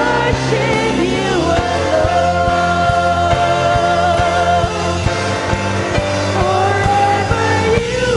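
Christian worship band music: a steady drum beat under sustained chords and low notes, with a gliding melodic lead line over it.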